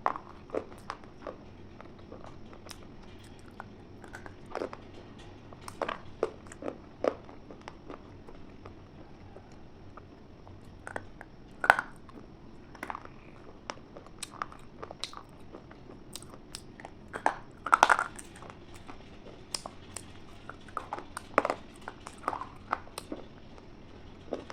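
A person biting and chewing something crunchy: scattered sharp, crisp crunches with quiet gaps between them, the loudest a cluster about 12 seconds in and another about 18 seconds in.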